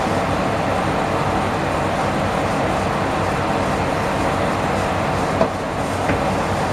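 Steady running noise of a diesel railcar heard from inside the passenger cabin, with a short click about five and a half seconds in.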